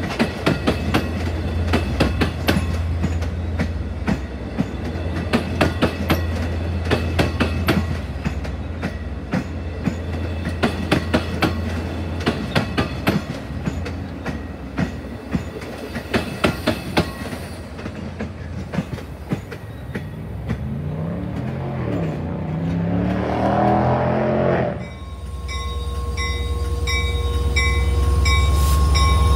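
Long Island Rail Road bilevel coaches rolling by, wheels clicking rapidly over rail joints, the clatter thinning out as the train passes. Near the end a diesel locomotive's deep engine rumble comes in and grows louder, with a steady high ringing tone pulsing over it.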